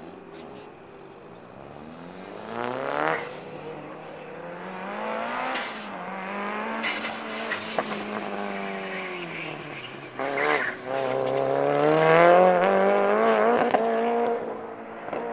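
A car's engine revving hard on an autocross run, its pitch repeatedly climbing under acceleration and dropping as the driver lifts or shifts. It gets louder toward the end, loudest about twelve seconds in.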